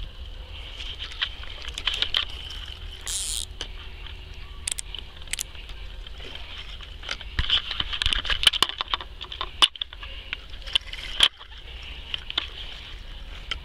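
Rain pattering steadily on a fishing umbrella, with scattered sharp clicks and knocks from fishing tackle being handled.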